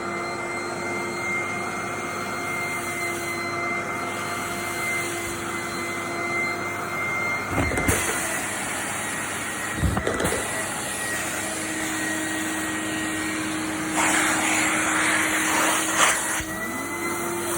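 Vacuum cleaner running with a steady motor whine and rushing air. There are a few short knocks around the middle, and the air rush grows louder for a couple of seconds near the end.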